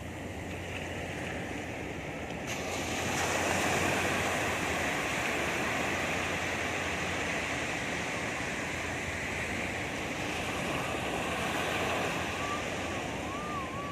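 Sea surf washing onto a beach, a steady rushing that swells about three seconds in, with wind buffeting the microphone. A faint wavering whistle-like tone comes in near the end.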